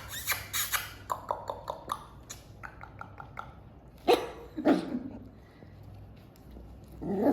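Six-week-old Welsh Terrier puppies yapping in play: a quick run of short high yips, then two louder barks about four seconds in and another near the end.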